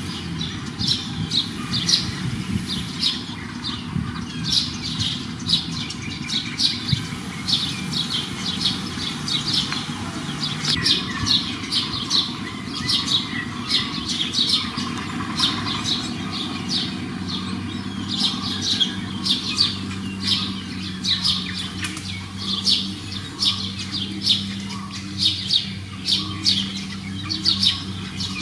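Small birds chirping in short, quick, high notes repeated over and over, about two a second, over a steady low hum that becomes more even about two-thirds of the way through.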